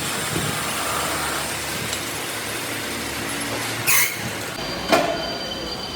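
Steady workshop machine noise, with two sharp knocks about four and five seconds in.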